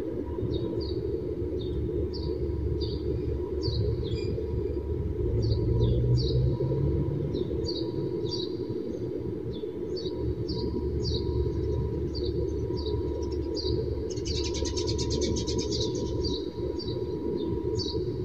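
A small bird chirping over and over, short high chirps about twice a second, with a brief rapid rattling chatter near the end. Beneath it is a steady low background murmur of the gathering crowd.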